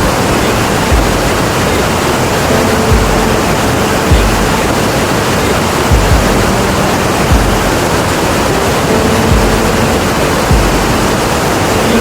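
Iguazu Falls: a loud, steady roar of massive falling water, with irregular low thumps about every second or so.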